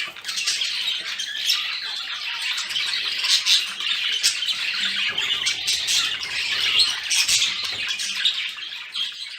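Budgerigars chattering continuously with a dense mix of rapid chirps, warbles and sharp squawks, the excited breeding-season chatter used to stimulate pairs to mate.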